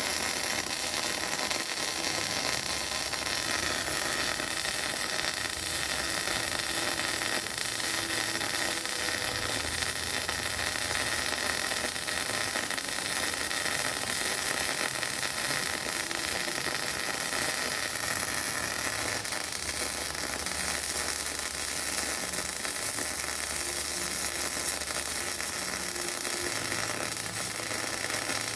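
MIG welding arc on steel pipe: a steady hiss with fine crackle that runs without a break.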